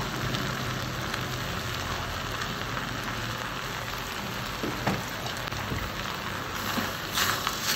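Fried rice with minced beef, peas and sweet corn sizzling steadily in a pot on the stove, with a brief tap about five seconds in.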